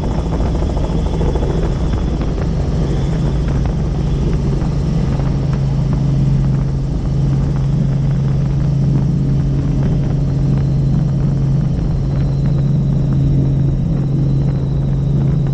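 Helicopter in flight: steady, loud rotor and engine noise with a strong constant low hum.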